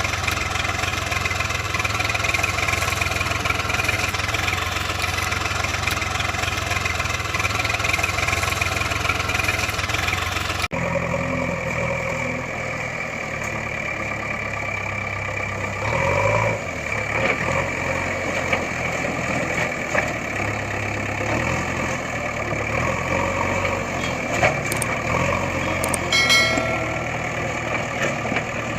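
Engine running steadily at idle. About eleven seconds in, the sound cuts abruptly to a second, less even engine whose pitch rises and falls, with a few short clicks near the end.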